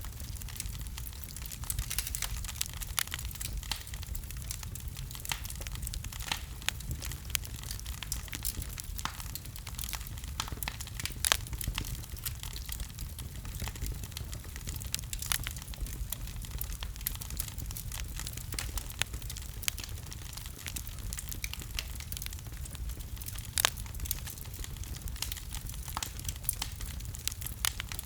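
Wood fire burning in a fireplace: dense, irregular crackling and snapping over a steady low rumble of the flames, with a couple of louder pops.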